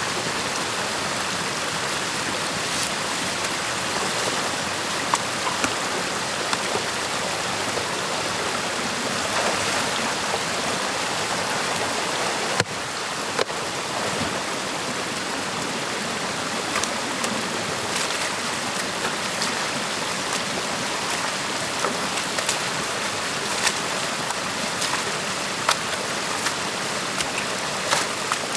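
Stream water rushing and splashing steadily through a beaver dam being opened by hand, with occasional short clicks and knocks over the flow.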